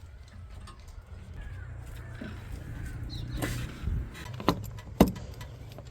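Low, steady diesel engine rumble with a few sharp clicks and knocks, the loudest about five seconds in.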